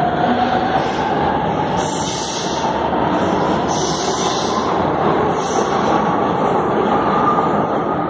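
Electric commuter train rolling along the platform and gathering speed, a steady rumble of wheels on rail under a motor whine that climbs slowly in pitch.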